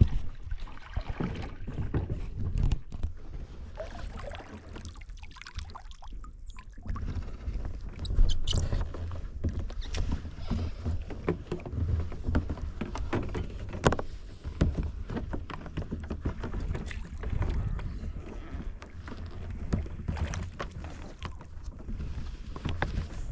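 Kayak paddle strokes splashing and dripping in the water, with irregular knocks and a steady low rumble of wind on the microphone.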